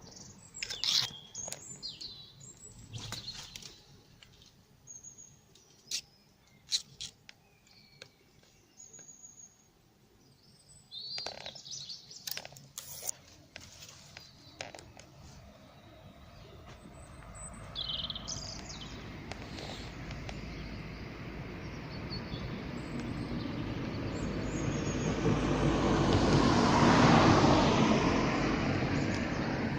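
Small birds chirping and calling in short, scattered phrases. In the second half a rushing noise swells slowly over about ten seconds to become the loudest sound near the end, then begins to ease.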